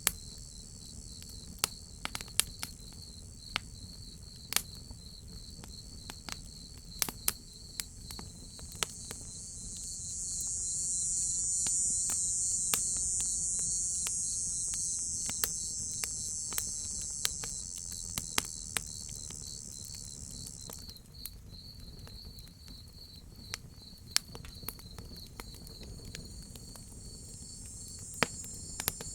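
Crickets chirping in a steady rapid pulse, with a higher insect drone swelling from about ten seconds in and cutting off suddenly about twenty-one seconds in, then creeping back near the end. Scattered sharp pops of a crackling wood fire sound over the top.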